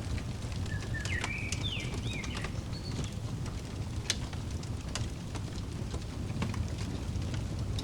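Fireplace crackling over a steady low rumble, with scattered sharp pops. About a second in, a bird calls a short run of whistled notes that slide up and down.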